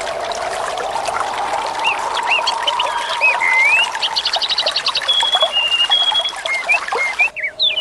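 Songbirds chirping and whistling over steadily trickling, flowing water, with a quick trill about four seconds in. The sound breaks off for a moment near the end.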